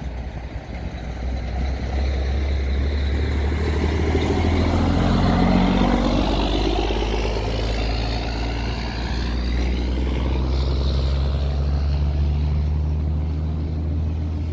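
A motor vehicle passes close by on the road. Its engine and tyre noise swell to a peak about five or six seconds in, then fade, over a steady low rumble.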